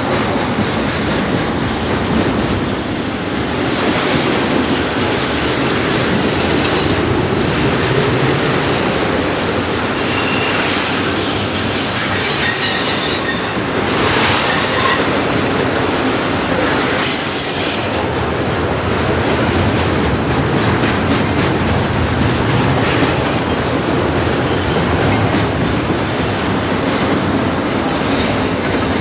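Railroad cars rolling past, a steady loud rumble of wheels on rail, with a few brief high wheel squeals partway through.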